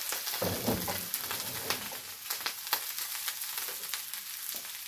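Fennel sizzling in olive oil on a ridged grill pan, a steady hiss with crackling pops. There is a brief low rumble about half a second in.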